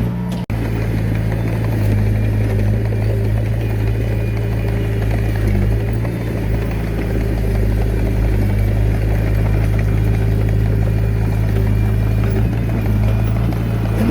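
Diesel engine of a Komatsu D21A mini bulldozer running steadily under work, with a brief break in the sound about half a second in.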